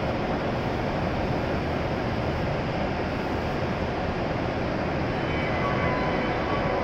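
Steady hum and hiss of a W7 series Shinkansen standing at the platform with its doors open. Faint thin tones come in about five seconds in.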